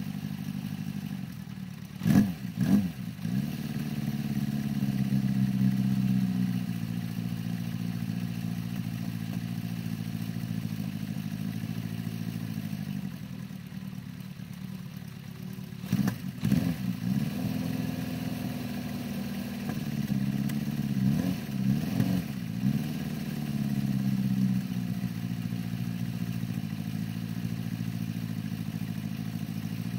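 1974 Honda CB550's air-cooled inline-four engine idling through an aftermarket exhaust, with quick throttle blips about two seconds in, around halfway, and a cluster a few seconds after that.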